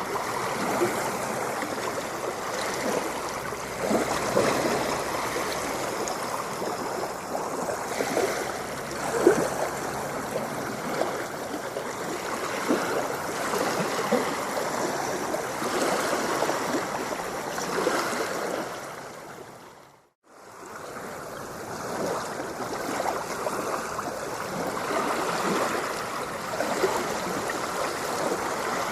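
Steady sound of moving water, dense with small splashes and gurgles. About two-thirds of the way through, it fades briefly to silence and back in, like the join of a looped recording.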